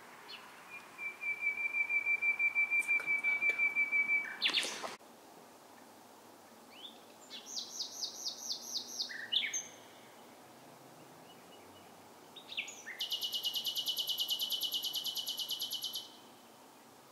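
A songbird singing in three separate phrases with pauses between. First comes a fast run of repeated notes ending in a sharp note. Then a phrase of higher repeated notes, and last a very rapid, high trill.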